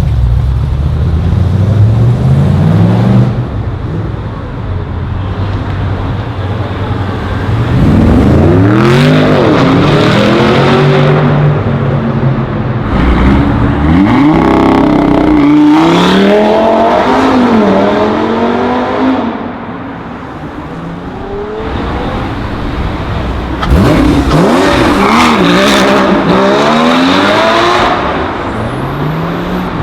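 Several high-performance cars accelerating hard away one after another, each engine climbing in pitch through the gears. There are loud runs at the start, from about eight seconds in, and again near the end.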